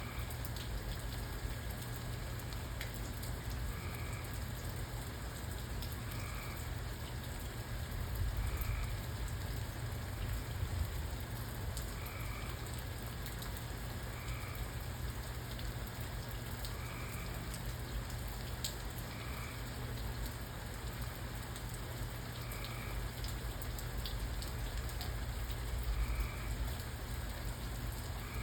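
Steady rainfall with a low rumble underneath. A faint short chirp repeats every two to three seconds.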